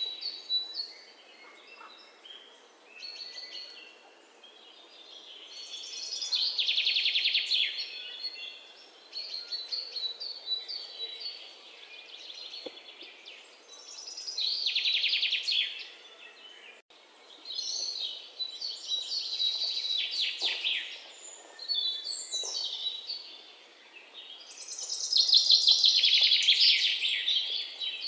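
Songbirds singing: a loud, rapid trilled phrase comes every several seconds, with softer chirps and notes in between.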